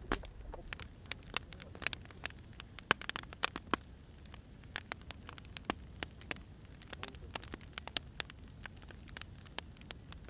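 Wood fire burning, with irregular sharp crackles and pops, several a second, over a low steady rumble.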